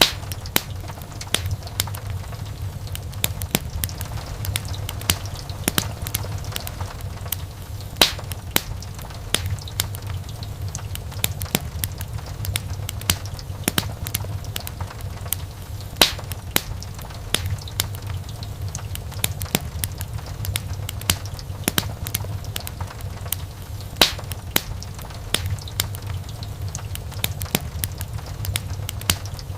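Wood fire crackling in a fireplace: a dense run of sharp pops and snaps from the burning wood over a steady low rumble of the flames, with a few louder snaps standing out.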